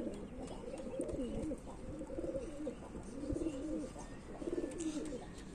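Several domestic pigeons cooing, low wavering coos following one another and overlapping.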